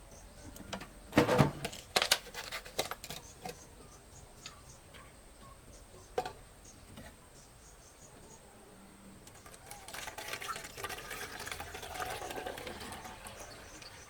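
A few sharp knocks and clatters of things being handled, then liquid pouring and spattering for about four seconds.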